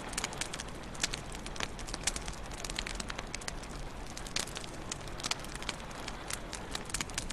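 Wood fire crackling in a fireplace: frequent irregular sharp pops and snaps, several a second, over a soft steady rumble of the flames.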